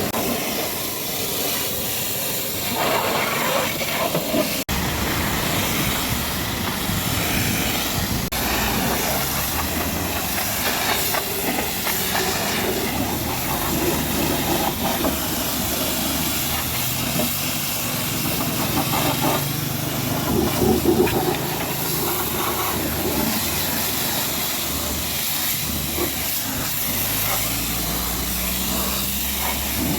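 High-pressure washer spraying water onto a truck's body: a continuous loud hiss that barely lets up, with a low pump hum rising and falling under it.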